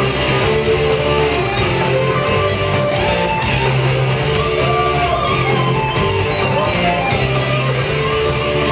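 Hard rock music: distorted electric guitar over drums and bass with a steady beat.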